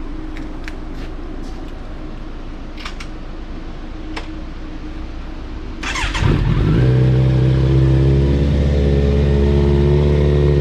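A few light clicks, then the Kawasaki Z900's inline-four engine is cranked by the starter about six seconds in, fires at once and settles into a steady, loud idle through a newly fitted CS Racing aftermarket exhaust.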